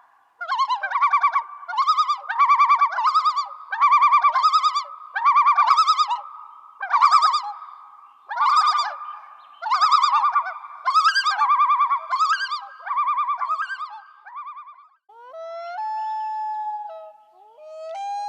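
Animal calls: a long series of short, rapidly warbling calls, one or two a second, then near the end a few longer steady notes that jump up and down in pitch.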